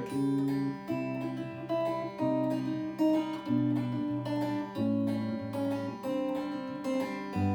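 Acoustic guitar playing an instrumental passage: chords with a low bass note, changing in a steady rhythm about every half second.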